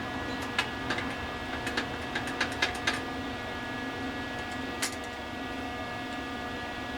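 A run of sharp, light clicks and taps from parts being handled and fitted, about a dozen in the first three seconds and one more near five seconds, over a steady machine hum.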